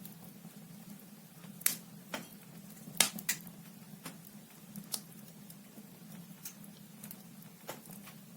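Wood fire burning in a fireplace, logs crackling with irregular sharp pops, the loudest about one and a half and three seconds in, over a steady low hum.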